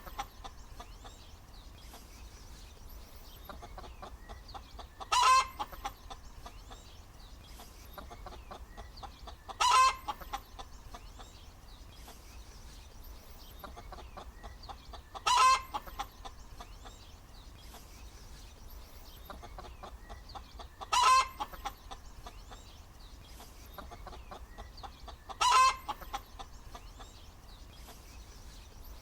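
Hen cackling: five loud, short calls spaced about five seconds apart, over a quieter background.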